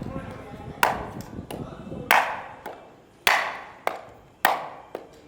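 Repeated chopping strikes, a sharp blow about once a second, each with a short ringing fade and lighter taps in between.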